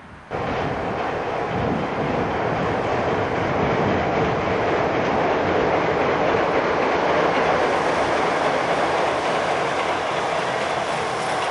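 Red electric train passing on a railway bridge: a loud, steady rumble of wheels on rails. It cuts in suddenly just after the start and cuts off suddenly at the end.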